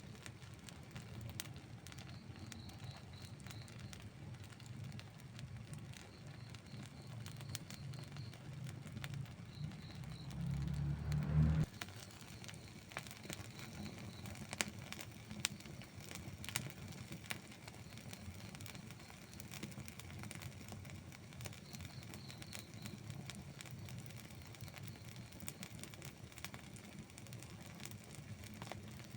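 Outdoor wood campfire crackling, with frequent small pops over a low rumble. About eleven seconds in, a louder low rumble swells and cuts off suddenly.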